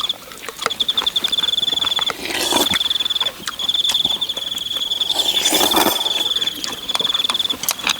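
Crickets chirping in long, rapidly pulsed trills that stop and restart every second or two. Two short rustling noises come about two and a half seconds in and again near the six-second mark.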